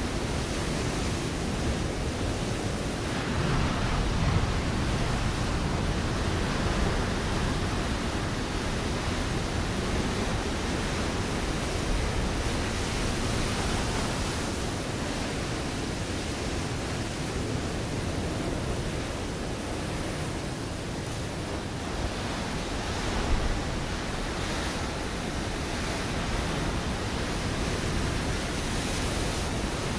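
Ocean waves breaking and washing over a rocky shore, a continuous roar of surf that swells and eases, with a brief louder crash about 23 seconds in.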